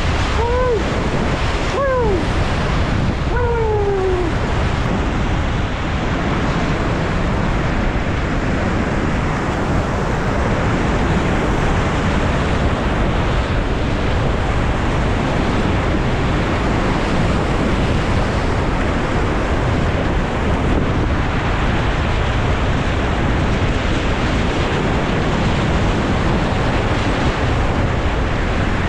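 Whitewater rapids rushing loudly and steadily, with wind buffeting the action-camera microphone. Three short shouts falling in pitch come in the first four seconds.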